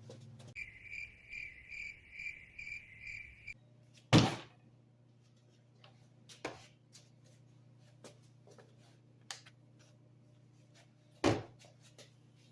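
Electronic beeping, about eight short beeps in quick, even succession, followed by a sharp knock and scattered lighter clicks and taps, with a second knock near the end.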